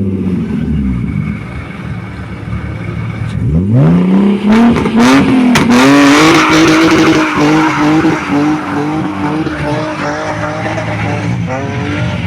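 Rally car launching from the start line. Its engine revs up about three seconds in and it accelerates hard, with the pitch climbing and dropping at quick gear changes and the tyres spinning and squealing. The engine note then holds steady and fades as the car drives off.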